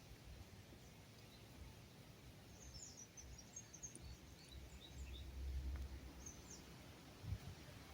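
Faint, quick, high-pitched chirps of small birds, a rapid cluster about three seconds in and a couple more near six seconds, over a low rumble that swells briefly about five seconds in.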